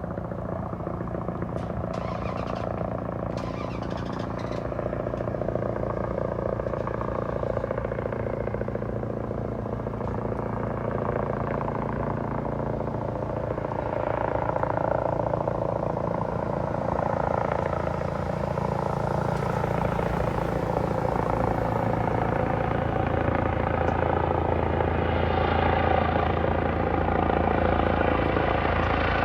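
Air ambulance helicopter approaching to land, its rotor and engine drone steady in pitch and growing gradually louder as it nears.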